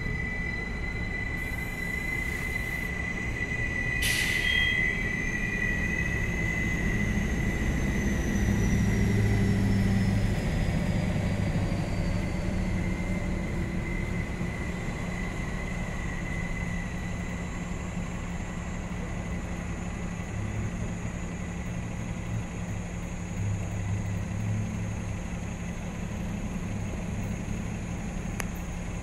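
OC Transpo Stadler FLIRT diesel-electric train running past, with a low engine hum and a high steady squeal throughout. A brief sharp noise comes about four seconds in.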